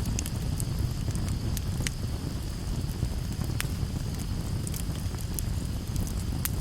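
Campfire burning with a low steady rumble and scattered sharp crackles and pops; the loudest pops come about two seconds, three and a half seconds and six and a half seconds in.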